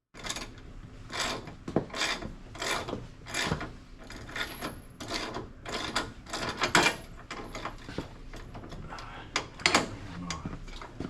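Hand socket ratchet being worked on a suspension bolt, its pawl clicking in a rasping sweep on each stroke, roughly every three-quarters of a second.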